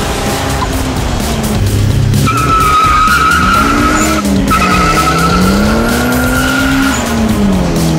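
Car engine at full throttle: its pitch climbs and drops back at gear changes, about halfway through and again near the end. A steady high-pitched whine runs from about two seconds in until near the end.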